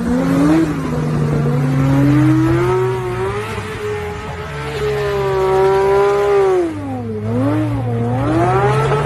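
Porsche 911 flat-six engine revving high and holding, then dropping and climbing twice near the end as the car slides through a wet hairpin. A steadier lower engine drone runs underneath.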